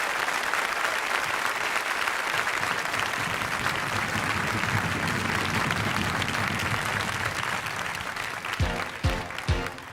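Audience applauding steadily, then about eight and a half seconds in a pop song's intro starts with a steady kick-drum beat, about two beats a second.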